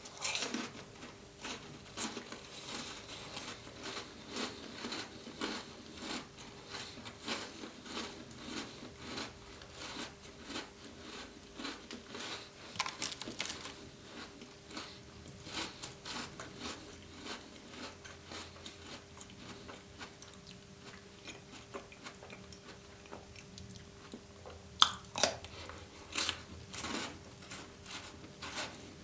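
Close-miked chewing and crunching of Tim Tam chocolate biscuits, a two-biscuit sandwich: a string of crisp crunches with a few louder bites near the end.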